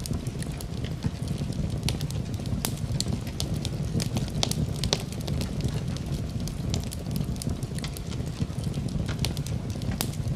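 Wood fire burning in a fireplace, with a steady low rumble and frequent sharp crackles and pops.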